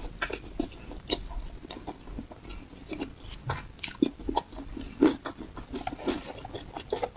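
A person chewing a mouthful of meat close to the microphone, with irregular soft clicks and mouth smacks. Two sharper smacks come about four and five seconds in.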